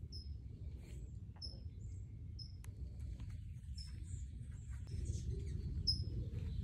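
A bird chirping over and over: short, high notes that drop in pitch, about one or two a second. Under it runs a steady low rumble.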